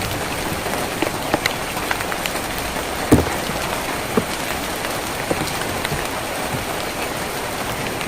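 Steady rain on a tin roof: an even hiss with scattered louder drops plinking through it, one heavier drop about three seconds in.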